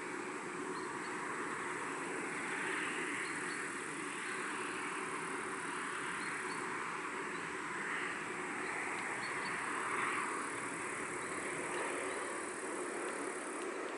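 Pond-side countryside ambience: a steady rushing of breeze and water that swells a few times, with faint, short, high chirps scattered through it.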